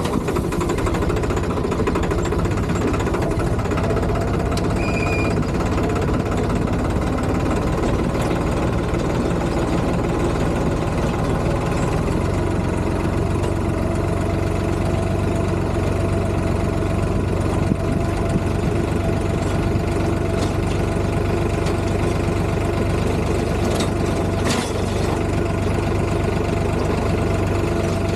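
Tractor engine running steadily, its low hum growing stronger about twelve seconds in, with a couple of short clicks near the end.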